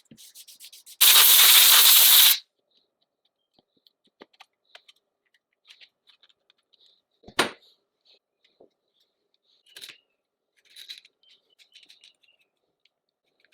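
Workshop sounds from restoring a chainsaw. A loud steady hiss starts about a second in and lasts over a second, then cuts off. After it come scattered light clicks and taps of small parts being handled, with one sharper knock near the middle.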